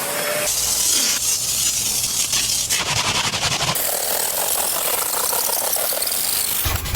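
Car-wash equipment hissing steadily, a run of short cuts between cleaning steps with the hiss changing abruptly several times.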